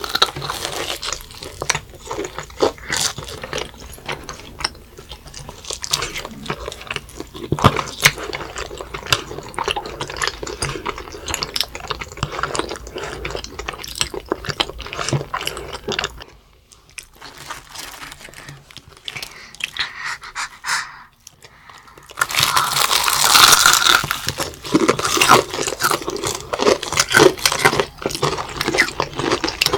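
Close-up eating sounds: soft chewing of cream cheese balls with many small mouth clicks. About two-thirds of the way through, louder crisp crunching starts as fried chicken drumsticks are bitten into.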